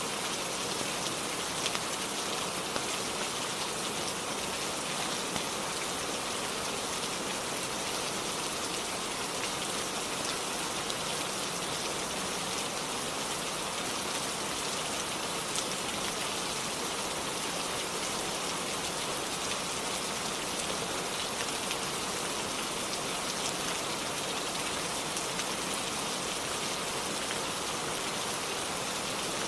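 Steady rainfall, an even hiss with a few faint sharper ticks of single drops scattered through it.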